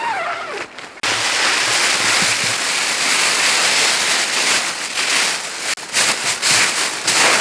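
A zipper pull finishes in the first half-second. About a second in, a loud, even rush of blizzard wind starts abruptly and keeps blowing, gusting unevenly near the end.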